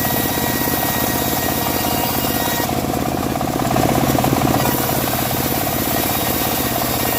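Engine-driven, home-built bandsaw mill running steadily with a rapid pulsing engine note and a high hiss that eases for a couple of seconds partway through.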